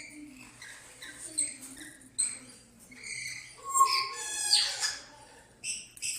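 Pet parrots squawking and calling in short, high-pitched bursts, loudest about four seconds in.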